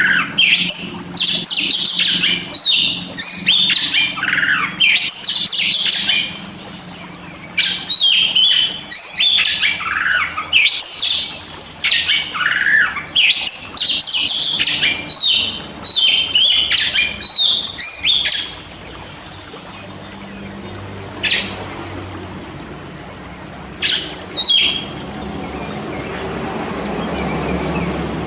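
Oriental magpie-robin (kacer) singing rapid, loud, varied phrases of whistles and harsh notes, packed closely for about eighteen seconds, then only a few single notes, over a low steady hum.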